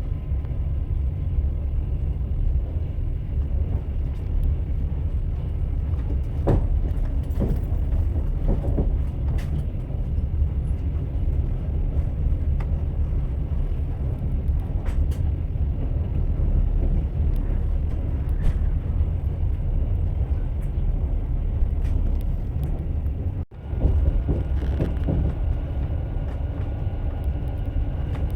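A moving train's steady low rumble, with the wheels clacking irregularly over rail joints. The sound breaks off for a split second about four-fifths of the way through.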